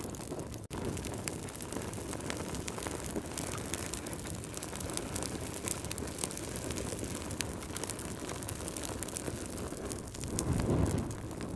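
Wood fire crackling, with many sharp pops over a steady low rush of flame. The sound dips for an instant just under a second in, and the low rumble swells briefly near the end.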